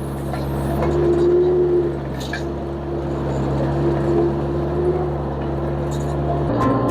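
Vermeer mini skid steer's engine running steadily under light work, a little louder about a second in. Acoustic guitar music comes in near the end.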